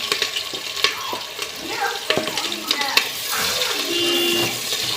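Food frying in a cooking pot while being stirred, an even sizzling hiss with a few sharp knocks of the utensil against the pot.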